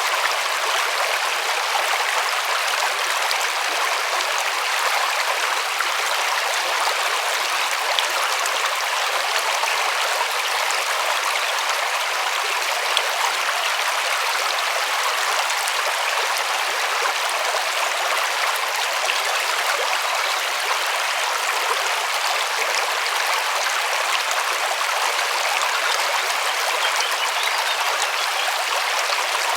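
River water rushing and burbling steadily, an even hiss with small splashes through it.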